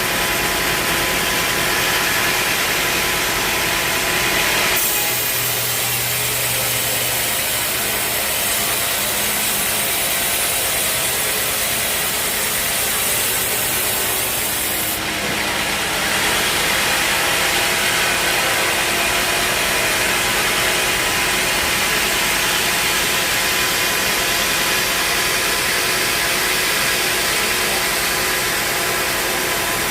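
Sawmill running and sawing through a log: a steady machine hum under a strong hiss. About five seconds in the sound turns thinner and higher for some ten seconds, then goes back to its fuller tone.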